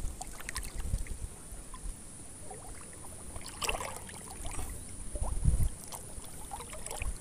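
Wind buffeting the microphone in strong gusts, heard as irregular low rumbles that swell about a second in and again near five and a half seconds.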